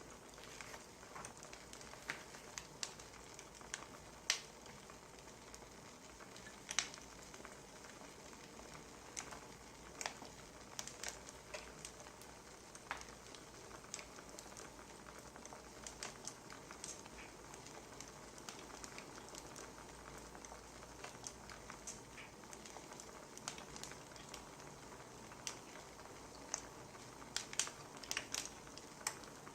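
Wood fire crackling: a steady low hiss with irregular sharp pops and snaps of burning firewood.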